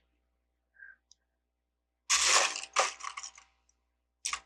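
Loose Lego plastic pieces being handled: a burst of plastic crunching and rattling about two seconds in, a few small clicks, then another short burst near the end.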